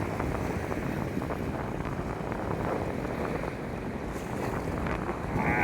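Steady rushing wind noise on the microphone out at sea, with no clear engine note.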